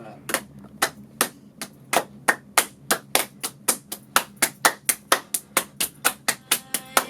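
A series of sharp hand claps that speed up from about two to about five a second, over a faint steady low hum.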